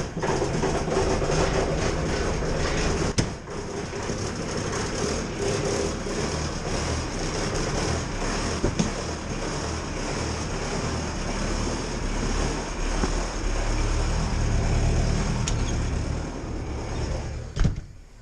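Bobcat skid-steer loader engine running steadily just after a cold start, heard from inside the cab as it warms up. Near the end there is a sharp click and the sound gets much quieter.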